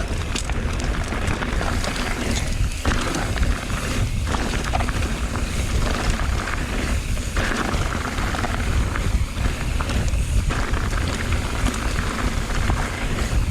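Mountain bike riding a rocky singletrack trail: wind rumbling on the microphone over the crunch and rattle of tyres and bike on rock, steady and loud throughout.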